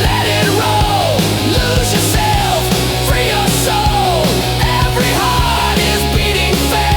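Instrumental rock music with a steady drum beat and bass line, and a lead electric guitar playing bending, falling phrases.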